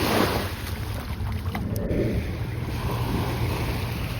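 Sea waves breaking and washing up the beach, swelling at the start and twice more, over a steady low rumble of wind on the microphone.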